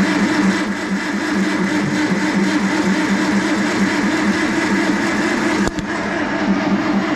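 Farmall Super M tractor's starter cranking the engine over in a pulsing rhythm without it catching, with a brief break and a click near the end; the engine won't start, which is put down to a weak battery.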